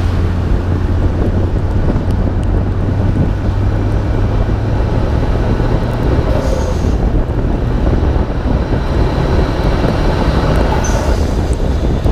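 Wind rushing over a hood-mounted microphone, over the steady drone of a Nissan Skyline R32 GT-R's twin-turbo straight-six and its tyres on a wet road at speed.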